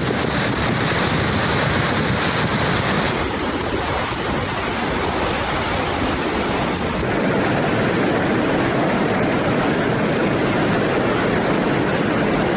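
Flash-flood water rushing in a loud, continuous wash of noise, with wind on the microphone; the sound changes abruptly about three and seven seconds in as one recording gives way to the next.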